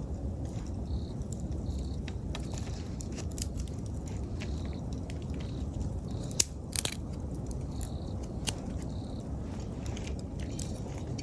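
Wood bonfire burning with a steady low rumble and scattered sharp crackles and pops, two loud pops a little past halfway. An autumn insect chirps in short high pulses over it, about once or twice a second.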